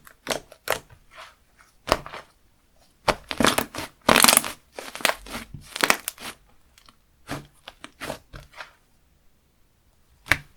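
Slime being squeezed and pressed by hand, giving an irregular string of crackly clicks and pops, busiest around the middle and thinning out toward the end.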